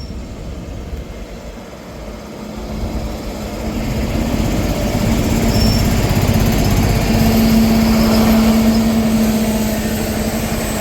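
Class 43 HST power car's diesel engine running and building up, its sound rising over a few seconds and then holding steady with a strong low hum, as the train gets ready to pull out.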